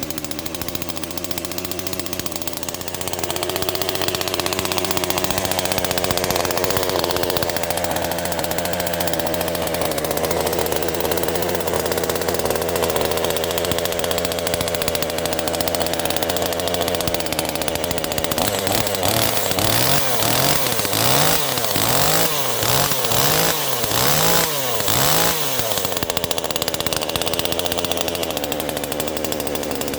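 Small Chinese two-stroke top-handle chainsaw, which the owner believes is a Zenoah copy, running just after a cold start. It runs steadily, gets louder a few seconds in, then is revved up and down about once a second, seven or so times, before dropping back to a steady idle near the end.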